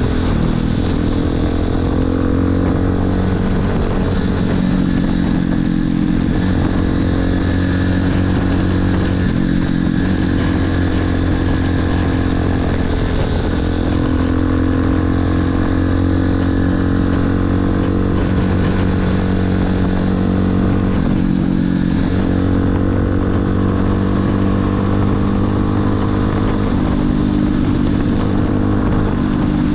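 Motorcycle engine running while riding, its note dropping and climbing again several times.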